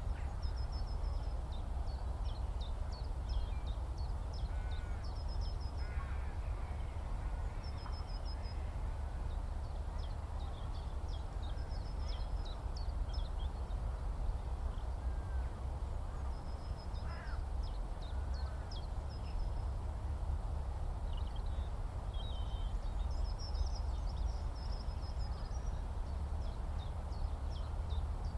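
Skylark song: an unbroken stream of high chirps and trills. Under it runs a steady low rumble, and a few lower calls come about five to six seconds in.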